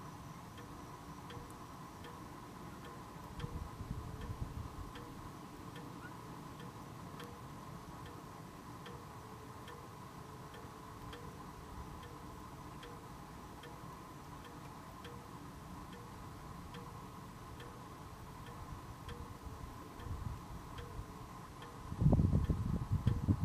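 Thunderstorm ambience: a faint, regular ticking, roughly one tick every two-thirds of a second, over a steady high drone. Low rumbling comes a few seconds in and again, much louder, near the end.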